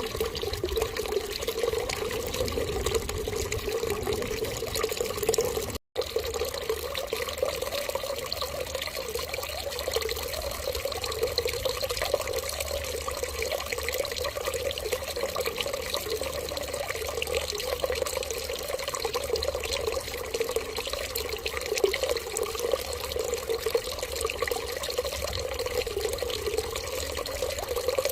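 Steady running water, like a tap left running into a sink. It breaks off for an instant about six seconds in, then carries on unchanged.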